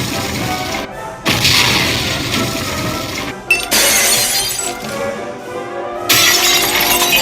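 Dishes and glass shattering in three separate crashes, roughly two to two and a half seconds apart, each one trailing off. Background music plays underneath.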